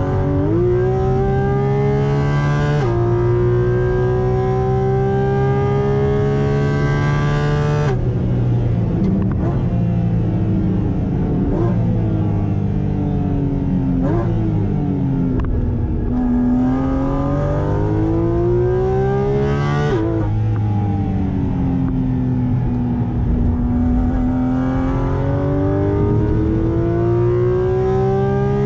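Porsche 718 Cayman GT4 RS's 4.0-litre naturally aspirated flat-six at full throttle on track, heard from inside the cabin. It pulls up through the revs with an upshift about three seconds in. About eight seconds in it comes off the throttle for braking and blips down through several gears, then pulls back up through the revs with upshifts about twenty seconds in and at the very end.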